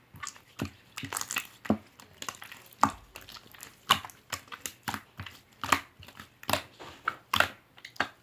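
Slime being squeezed and pressed by hand, giving a steady run of sharp sticky pops and clicks, about two to three a second.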